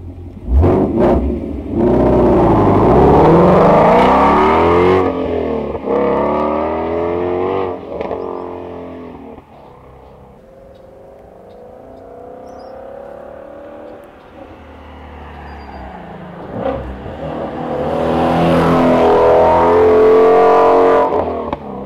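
Ford Mustang Shelby GT350's 5.2-litre flat-plane-crank V8 heard from outside the car. It barks sharply about half a second in and is revved several times. After a quieter stretch it accelerates hard with a rising note as the car pulls away.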